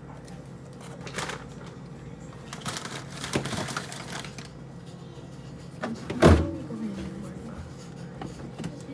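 Food containers and packages being handled and set down: scattered knocks and rustling, with one sharp, loud knock about six seconds in, over a steady low hum.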